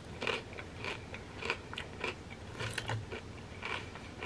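A person chewing a crunchy fried chip loaded with creamy crab rangoon dip close to the microphone: a string of irregular crunches, several a second.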